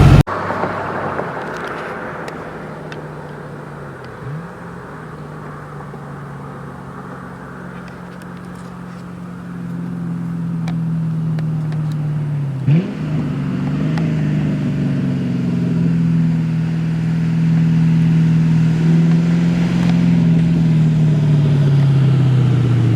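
Muffler-deleted Ford Mustang GT's 4.6-litre two-valve V8 driving down the street on open exhaust. The engine note dies away over the first seconds, then grows steadily louder through the second half, with two short jumps in pitch, about four and thirteen seconds in.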